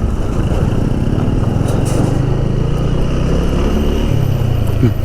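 TVS Apache motorcycle's single-cylinder engine running as it is ridden, its note rising a little about a second and a half in.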